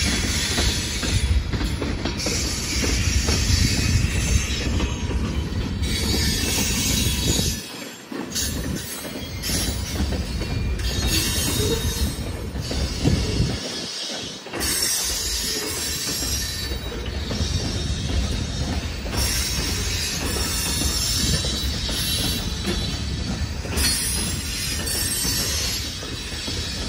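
Freight cars of a mixed freight train rolling past on steel wheels: a steady rumble and clatter over the rails with a high hiss. The sound dips briefly twice.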